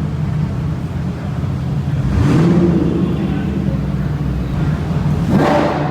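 A sports car engine running with a steady low drone, revved twice: a rising rev about two seconds in, the loudest moment, and a shorter surge near the end.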